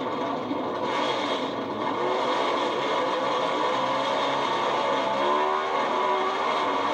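Pro Stock drag trucks' naturally aspirated small-block V8 engines running, with revs climbing in pitch about five seconds in.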